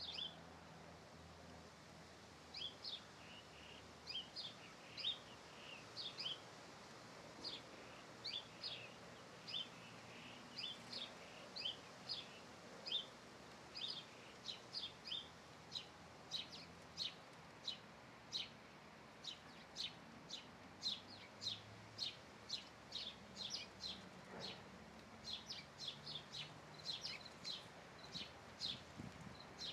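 Small songbird chirping: short, high, sharp chips repeated over and over, in ones and pairs at first and coming faster, about two a second, in the second half.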